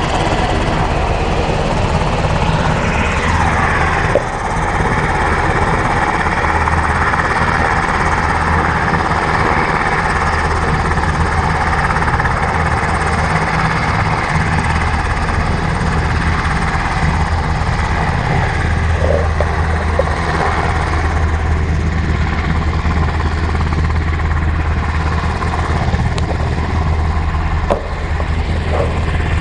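Sikorsky H-60L Black Hawk helicopter, its rotors and twin turboshaft engines running loud and steady throughout.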